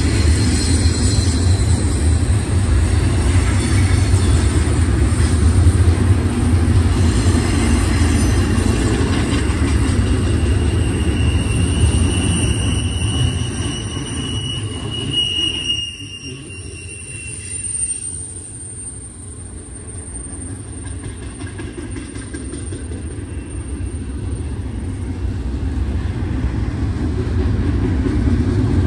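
Double-stack intermodal well cars rolling past on a curve with a steady heavy rumble, wheels squealing high-pitched in the middle. The rumble drops off sharply about halfway through, then slowly builds again.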